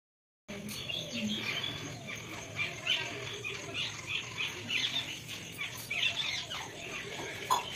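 Birds chirping, many short, quick calls close together. The sound cuts in suddenly about half a second in.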